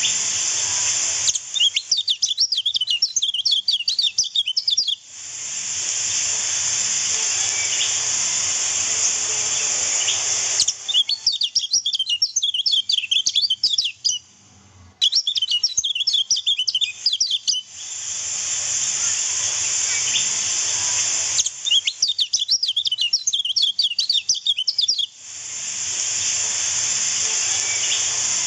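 Kecial kuning (lemon-bellied white-eye) song in four bursts of rapid, high twittering chirps, each a few seconds long. Between the bursts there is a steady hiss of running river water, which cuts out whenever the birds sing.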